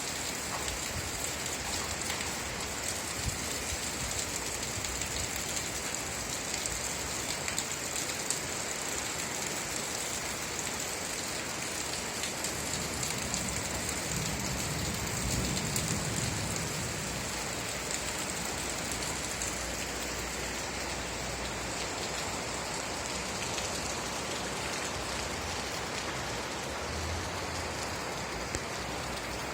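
Steady rain falling on a surface, with fine drops ticking through it and a brief low rumble about halfway through.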